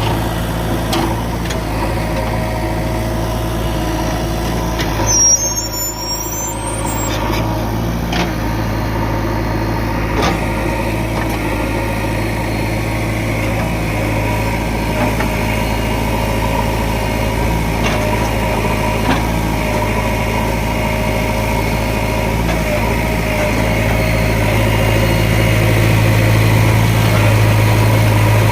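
JCB 3DX backhoe loader's diesel engine running steadily, with a few light knocks and clanks along the way, and getting somewhat louder near the end.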